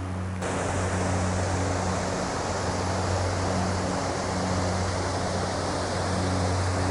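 Steady rush of falling water from a waterfall, cutting in abruptly about half a second in and holding even, with a low hum underneath.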